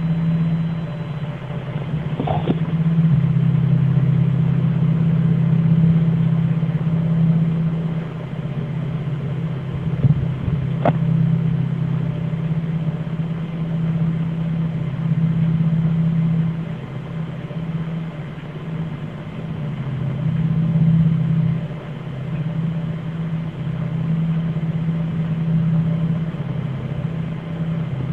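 A steady low drone made of two close pitches that swell and fade every few seconds, with a couple of faint clicks. The recordist takes it for the unexplained 'Hum'.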